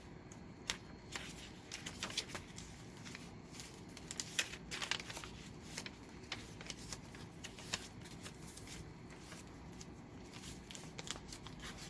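Paper and card pages of a handmade journal rustling as they are turned and handled, with many small irregular clicks and crinkles.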